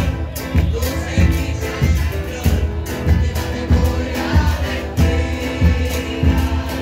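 Murga chorus singing together over a steady drum beat of about two strikes a second, with cymbal crashes.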